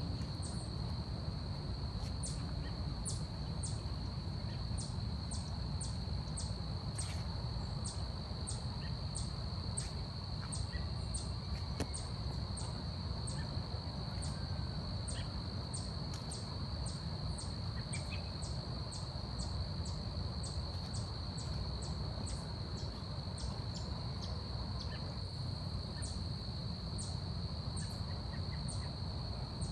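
Forest ambience: a steady high-pitched insect drone, with short, very high chirps repeating at a bit more than one a second over a low rumble.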